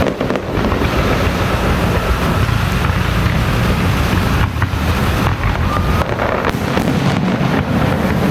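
Dense firecracker barrage, so thick that the bangs merge into one loud continuous roar, with a few separate sharp cracks near the start.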